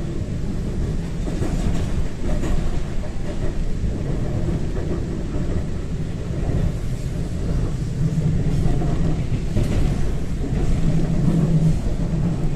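Train running along the track: a steady rumble of wheels and running gear, heard from inside the carriage.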